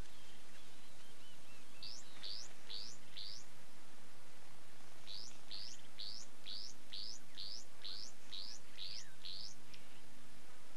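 A bird calling: a series of short high notes, each sweeping upward in pitch, given about three a second. There is a short run of four, a pause, then a longer run of about a dozen.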